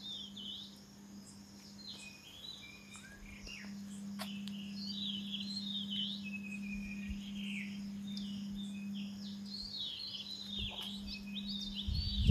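Birds chirping: many short, quick chirps and trills, over a steady low hum. A louder low rumble starts at the very end.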